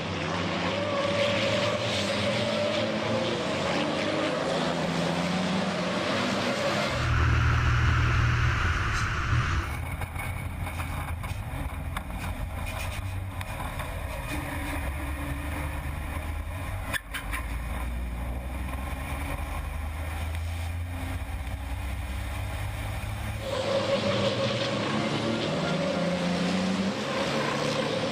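Racing trucks' diesel engines running hard, their pitch rising and falling. The sound changes abruptly a few times, from a higher engine note to a deep low rumble about seven seconds in, and back to the higher note near the end.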